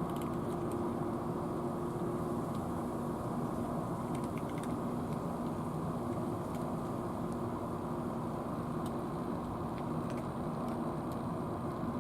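Steady mechanical drone of an engine running, with a constant low hum and a few faint ticks.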